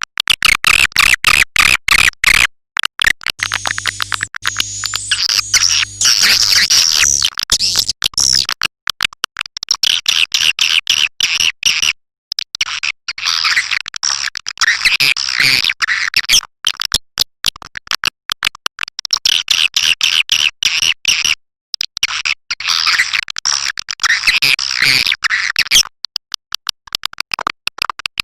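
Swiftlet lure recording of the 'raja Kalimantan' call type: dense, rapid twittering and chirping of swiftlets in stretches several seconds long, cut by brief gaps. It is made to draw swiftlets into a nesting house.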